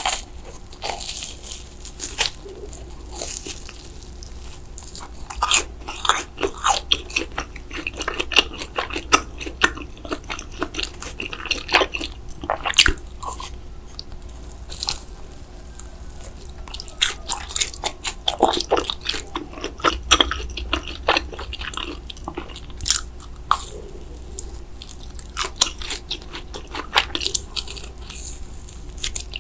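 A person eating cheese noodles and breaded mozzarella sticks: repeated crisp, crunchy bites and chewing, with sharp crunches coming irregularly all through.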